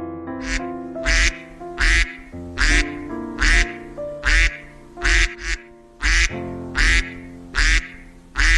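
A duck quacking repeatedly, about a dozen short, rasping quacks at an even pace, over background music with held notes.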